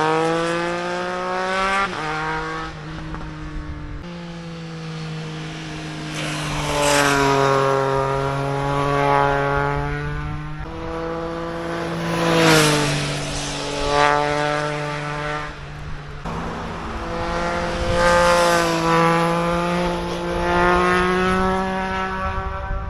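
Triumph Trident 660 three-cylinder motorcycle engine with a GPR aftermarket exhaust, riding past at fairly steady revs. The sound swells and fades several times, loudest about twelve seconds in, with the pitch dropping as it goes by.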